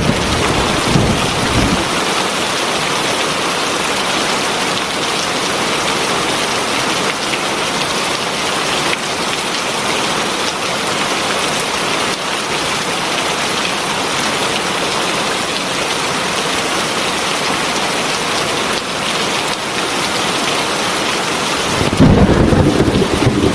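Heavy rain falling steadily. A low rumble of thunder dies away in the first couple of seconds, and another begins shortly before the end.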